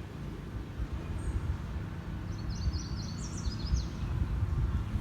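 Wind rumbling on the microphone, with a bird giving a quick run of high chirps about halfway through.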